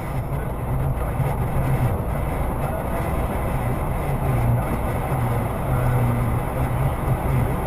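Steady drone of a heavy goods vehicle's diesel engine with road noise, heard inside the cab while the truck cruises along.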